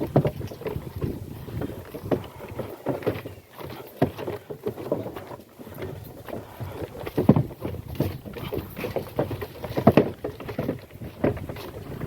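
A goat-drawn cart rattling and knocking as it is pulled over rough ground, with irregular clatters and a few louder knocks.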